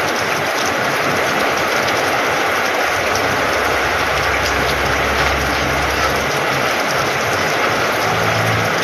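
Heavy rain falling steadily, a dense hiss and patter on the wet ground and the shed's corrugated metal roof. A low rumble joins in for a couple of seconds in the middle.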